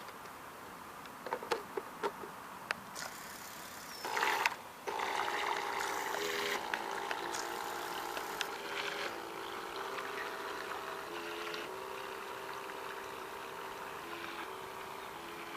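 A few clicks and knocks, then the RC rescue boat's motor starts about five seconds in and runs with a steady whine. Its pitch steps up and down as the throttle changes.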